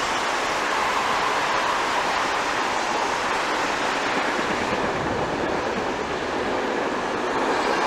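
Steady rushing noise of a passenger train rolling past, with no distinct wheel beats. The sound shifts slightly about five seconds in.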